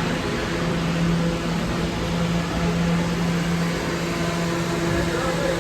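Steady running noise of a vehicle in motion, a constant low hum under an even rushing sound.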